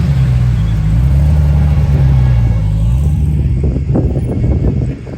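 A car engine running close by, its pitch rising and falling a little, then fading away about three and a half seconds in.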